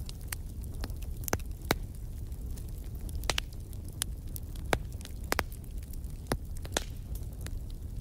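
Wood fire crackling in a fireplace: irregular sharp pops and snaps, about a dozen, over a low steady rumble.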